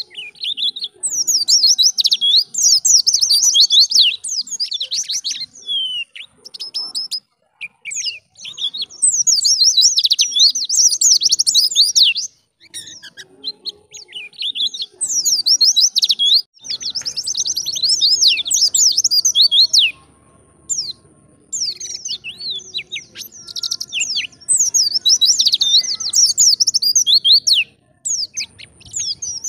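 Pleci (white-eye) singing in fast, high twittering phrases. The phrases come in bursts of a few seconds each, with short pauses between.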